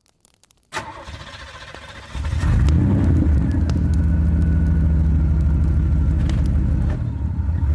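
BMW E60 535i's N54 3.0-litre twin-turbo straight-six being started: the starter cranks for about a second and a half, then the engine catches about two seconds in and settles into a steady idle.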